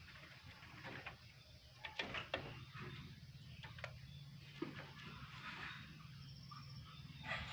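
Oriental magpie-robins at feeding time: faint, scattered short chirps with clicks and rustling, over a low steady hum that strengthens about two seconds in.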